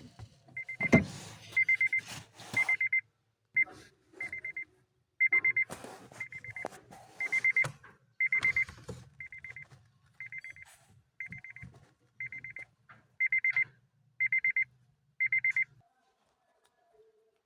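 Electronic warning beeper sounding a long run of short, high beeps, about one every 0.7 seconds, that stop shortly before the end. Scattered clatter and knocks run underneath.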